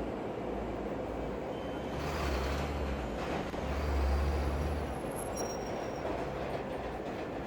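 Steady rain over a city with a train passing, its low rumble swelling twice in the first five seconds, followed by a few brief high-pitched squeaks a little later.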